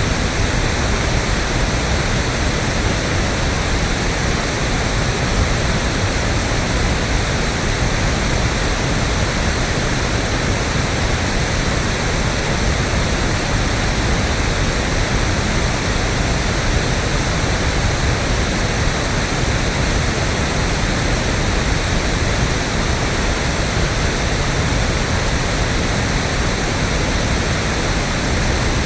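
Electronically generated pink noise: a steady, even hiss with a full low end, like a distant waterfall, unchanging throughout.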